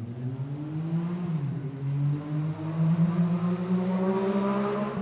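Engine running, its pitch rising over the first second or so, then holding steady as it grows louder.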